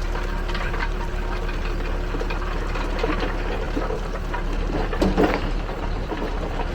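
Backhoe loader's engine running steadily under irregular rattling and knocking of soil and rubble in a roll screening bucket, with a louder burst of knocks about five seconds in.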